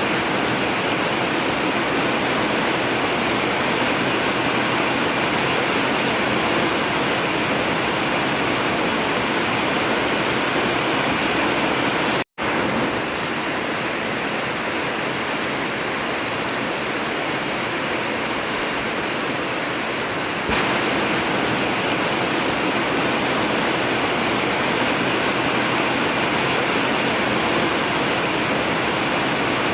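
Heavy rain pouring steadily on a metal roof, a dense even hiss that cuts out completely for a split second about twelve seconds in.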